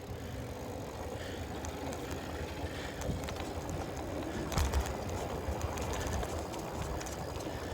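Riding noise of a bicycle picked up by a handlebar-mounted phone: a steady rumble of wind and tyres on the path, with a few knocks about four and a half seconds in as the phone holder jolts over bumps.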